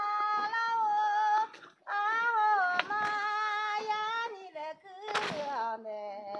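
A high voice singing long held notes with a slight waver, in phrases of a second or so separated by short breaths. A brief sharp knock comes about five seconds in.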